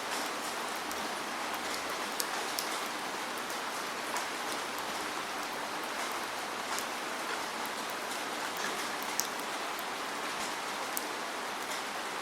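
Steady rain: a dense, even hiss with scattered sharp, louder drops landing close by.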